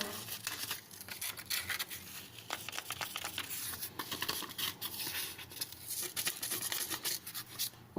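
Aluminium oxide sharpening stone being lapped on a glass plate: an uneven, gritty scratching made of many small clicks, a check of the stone's flatness from the factory.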